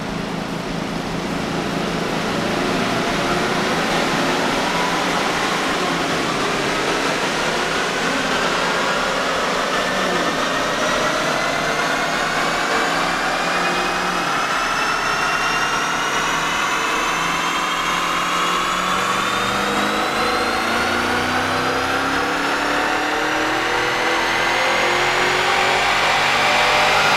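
A 2010 Chevrolet Camaro SS's L99 6.2-litre V8 making a full dyno pull, its engine and exhaust note climbing steadily in pitch through the revs, with the rear tyres spinning on the dyno rollers, and reaching its peak right at the end.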